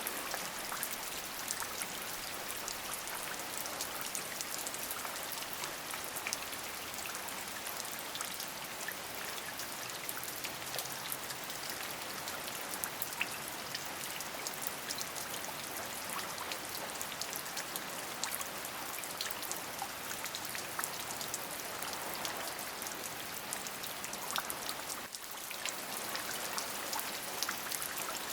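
Steady rain, with many individual drops ticking through an even hiss of falling water. The sound dips briefly near the end.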